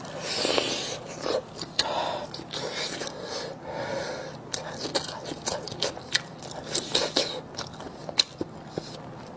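Close-miked eating: a bite into a large sausage in the first second, then chewing with many short mouth clicks and smacks.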